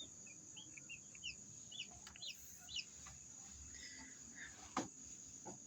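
Newly hatched chicks peeping: many quick, short, high peeps, thickest in the first three seconds and tapering off, with two faint clicks near the end.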